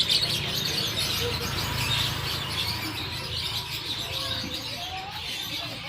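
Many caged songbirds chirping and twittering together in a dense chorus, over a low steady hum.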